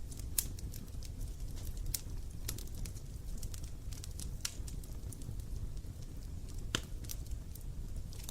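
Wood fire burning: a steady low rush of flames with scattered sharp crackles and pops, about one a second.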